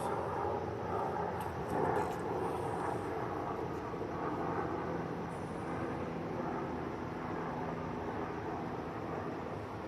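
Police helicopter flying by, its rotor and engine sound holding steady.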